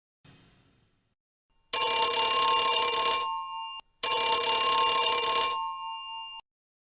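An early telephone's bell ringing twice, each ring about a second and a half long with a short ring-out, after a faint click at the start.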